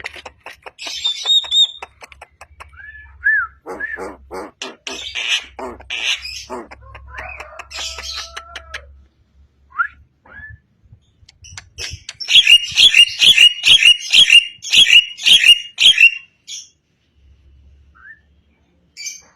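Javan myna singing a varied, chattering song of harsh squawks, clicking notes and short whistled glides. Past the middle comes a loud, fast run of repeated notes, the loudest part, before the song thins out near the end.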